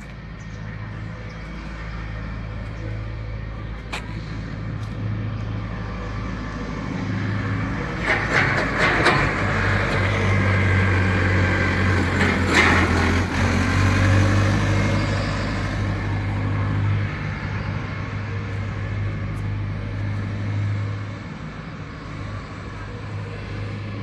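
Road sweeper truck's engine running steadily. A louder rushing noise with some clatter rises over it about a third of the way in and fades again about two-thirds through.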